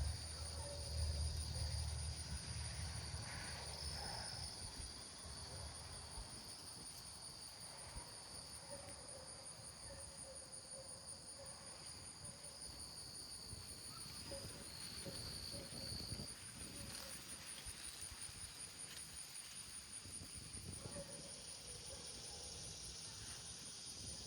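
Field insects, crickets or similar, trilling in a steady, high-pitched, finely pulsing chorus. A low rumble fades out over the first few seconds.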